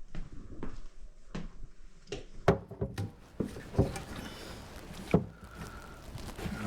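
Irregular knocks and clanks of tools and drain pipe parts being handled, with the sharpest knocks about two and a half and five seconds in.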